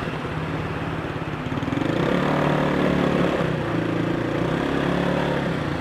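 Yamaha BW'S 125 scooter's single-cylinder engine running while riding, its note rising a little about two seconds in and then holding fairly steady, with road and wind noise underneath.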